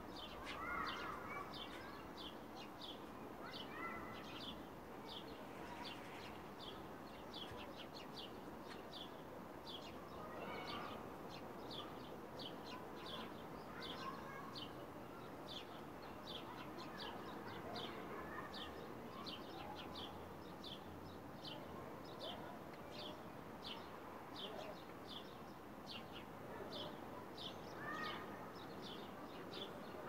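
Birds chirping: one bird repeats a short, high, falling chirp about twice a second without pause, while other birds give occasional lower calls.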